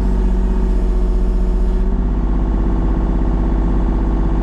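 Tractor engine running steadily, with a slight change in its note about two seconds in.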